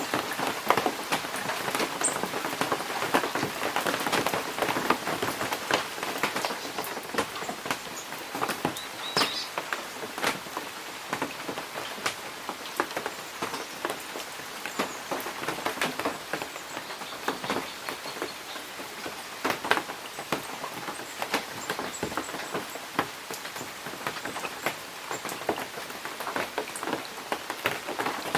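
Steady rain falling in a forest: a constant hiss of rain with many close, sharp drips ticking at irregular moments.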